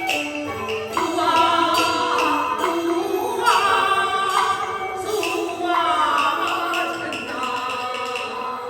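Beiguan opera music: a voice singing in gliding phrases over a traditional ensemble, with sharp percussion strokes marking the beat.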